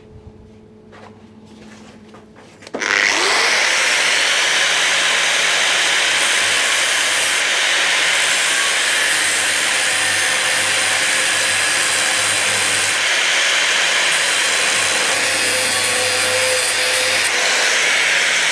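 Handheld grinder with a cutting wheel starting up about three seconds in, then cutting steadily and loudly through the welded seam of a metal motorcycle fuel tank.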